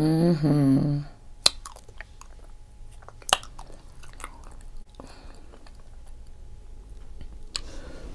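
Close-miked chewing and biting of seafood-boil food, with a few sharp wet clicks from the mouth. It opens with a loud, roughly one-second hummed voice sound.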